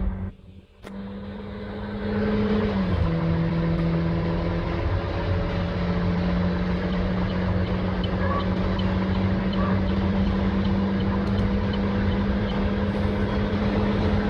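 Car engine pulling under acceleration over heavy road noise. It cuts out briefly at the start. About three seconds in, its pitch drops sharply, as with an upshift, then climbs slowly and holds steady.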